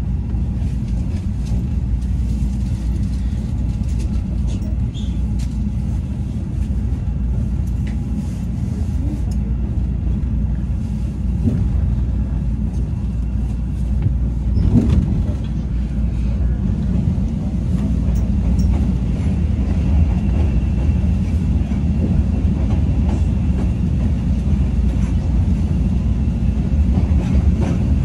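CTA 'L' rapid-transit train running, a steady low rumble of wheels on rails, with a single brief knock about halfway through.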